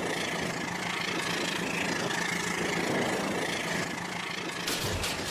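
Toy train running: a steady small-motor whir with a high whine, and a few sharp clicks near the end.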